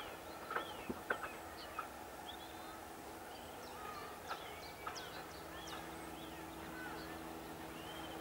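Birds chirping and calling in open countryside: many short rising and falling chirps, a few sharper louder ones in the first second or so, over a faint steady low hum.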